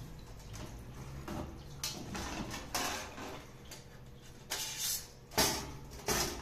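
Thin stainless-steel panels of a folding fire pit scraping and clinking as one panel is slid and hooked into the next. It comes as a run of short scrapes and knocks, the loudest about five and a half seconds in.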